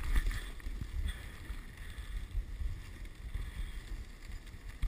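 Dog sled running along a snow trail: a steady rumbling rush of the runners over snow, with wind buffeting the microphone, and a short bump near the end.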